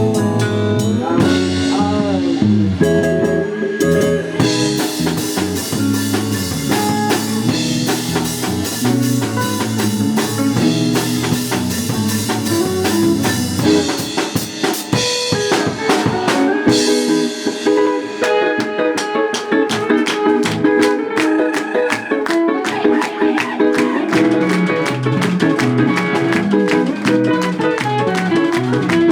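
Live band playing an instrumental passage with drum kit and guitar, the drums hitting steadily throughout.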